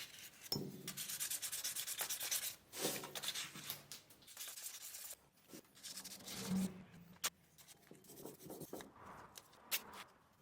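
Sandpaper rubbed by hand over a forged gold ring, in quick back-and-forth strokes that are busiest in the first half and thin out later, with a few sharp ticks near the end.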